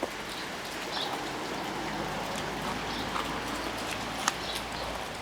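Steady rain falling, with a few faint short clicks over it, one a little sharper about four seconds in.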